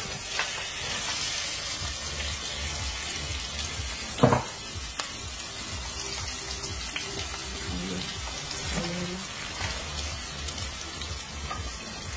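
Chopped onion, garlic and pepper sizzling steadily in a stainless steel frying pan as pieces of ripe plantain go in, with one sharp knock about four seconds in.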